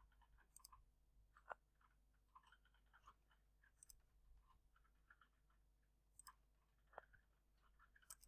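Near silence: room tone with a few faint, short clicks, the loudest about a second and a half in and another near the end.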